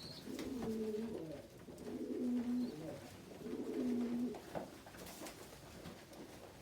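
Pigeons cooing: three low coos in a row, each about a second long, then a few faint clicks.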